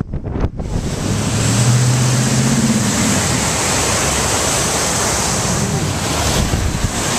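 Steady, loud rushing noise of a storm's downpour and wind on the microphone, starting suddenly about half a second in. A low hum sits under it for about two seconds, starting about a second in.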